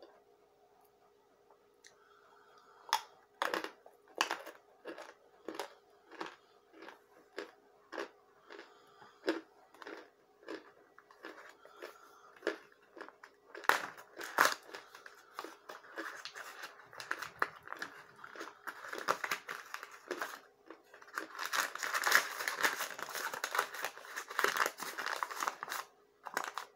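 Lumps of raw corn starch crunching as they are chewed: a run of crisp crunches, about one or two a second. From about halfway, the paper inner bag of a corn starch box crinkles and rustles as it is handled, loudest near the end.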